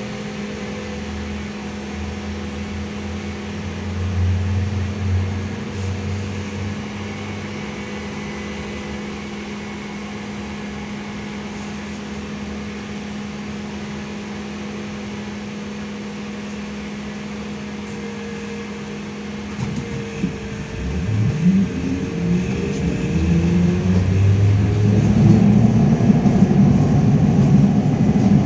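LiAZ-5280 trolleybus with a steady electrical hum while it stands, then about twenty seconds in its DK-213 traction motor whines up in pitch as it pulls away and accelerates, getting louder.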